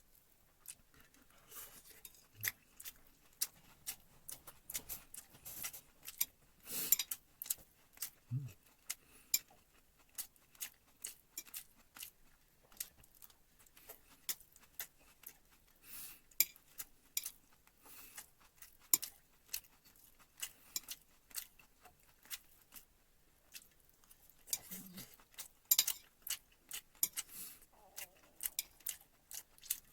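Metal utensils clicking and clinking against dishes in irregular, scattered taps, with a few soft low knocks.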